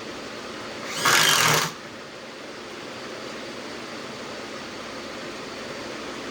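A small power tool's motor runs in one short burst of under a second, about a second in, over a steady background hiss.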